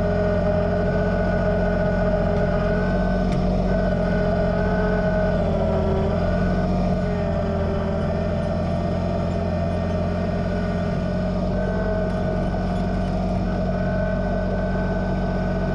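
Kubota BX2380 sub-compact tractor's three-cylinder diesel engine running steadily, its note wavering briefly about a third of the way in.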